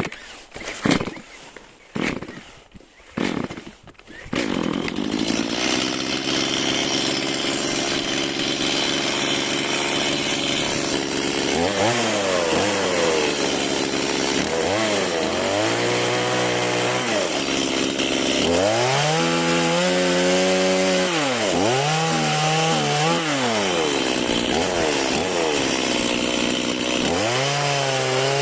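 Stihl MS 180 two-stroke chainsaw: after a few sharp knocks it starts about four seconds in and runs steadily, then revs up and drops back again and again while cutting firewood into smaller pieces.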